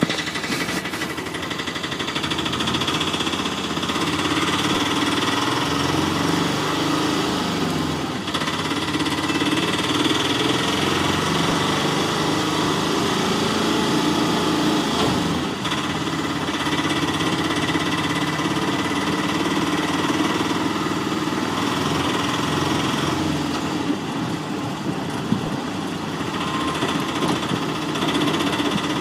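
Engine running steadily with a knocking, idling rumble, like a tractor's diesel engine.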